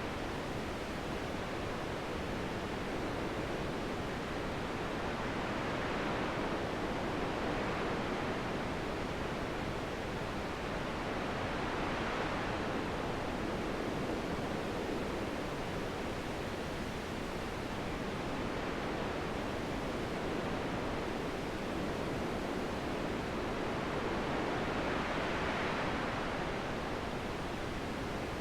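Steady wind noise, an even rushing hiss that swells gently every several seconds.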